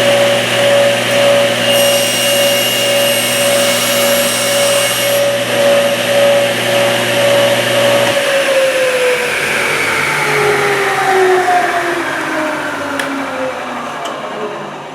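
Table saw with a combination blade running, with a higher whine for a few seconds early on as it cuts through a plexiglass sheet. About eight seconds in the saw is switched off and the blade winds down, its pitch falling steadily.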